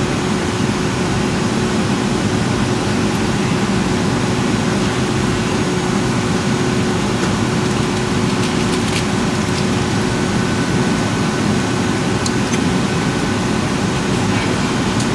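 Steady cabin noise inside a Boeing 757-200 on the ground after landing: an even rumble and rush of air with a steady low hum running through it.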